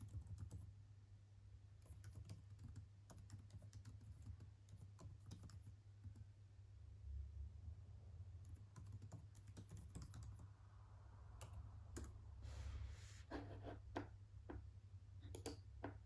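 Faint, irregular keystrokes of typing on a computer keyboard, over a steady low hum.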